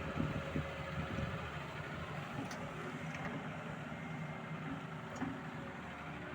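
Engine of heavy machinery running steadily, with a few faint clicks.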